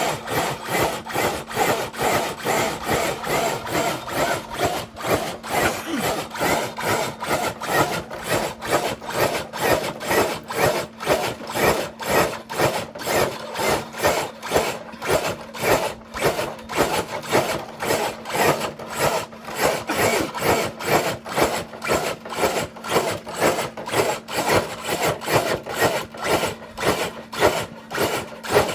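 Radio-controlled scale truck dragging a dead-weight sled loaded with seven bricks: a rhythmic rasping scrape, about three strokes a second, as the sled is hauled along.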